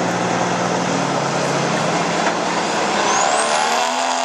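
Diesel pickup truck engine running hard under full load as it pulls a sled. A high whine rises sharply near the end.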